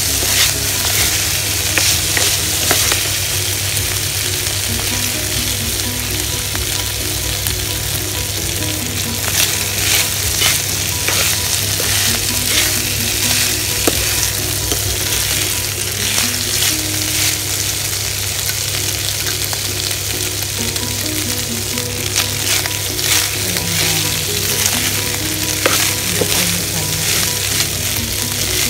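Chicken fried rice sizzling in a non-stick pan while a plastic spatula stirs and scrapes through it in irregular strokes, over a steady low hum.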